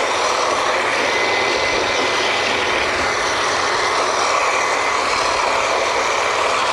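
Drilling rig machinery running: a loud, steady mechanical din with a faint steady whine in it.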